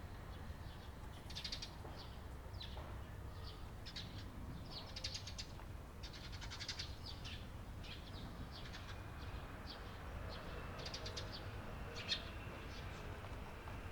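Eurasian tree sparrows chirping: many short, high chirps at an irregular pace, one sharper and louder near the end, over a low steady rumble.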